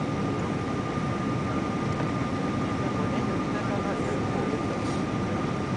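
Steady cabin noise inside a Boeing 777-200ER in flight: a constant low rush of engine and airflow with a thin, steady high tone over it.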